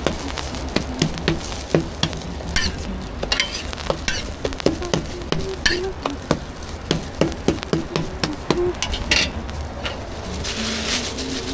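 Food frying on a street stall's griddle: a steady sizzle with many sharp knocks and scrapes of cooking utensils, and a few brief louder spurts of hissing.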